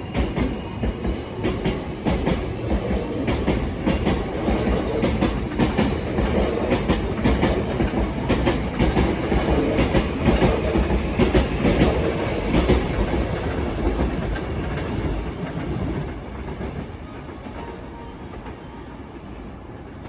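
Hankyu electric commuter train running into the platform, its wheels clacking over rail joints and points with many sharp clicks. The sound fades as the train slows towards a stop, about two-thirds of the way through.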